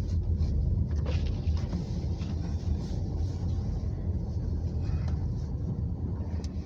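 Car driving on a snowy road, heard from inside the cabin: a steady low rumble of engine and tyres.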